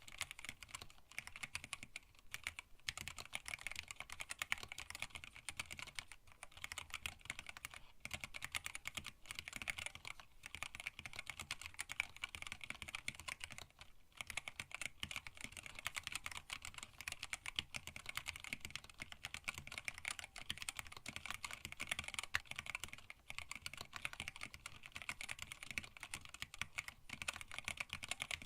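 Continuous typing on a hand-wired split mechanical keyboard with Tealios linear switches, blank PBT keycaps and an acrylic case: a steady stream of keystroke clacks, broken by brief pauses every few seconds.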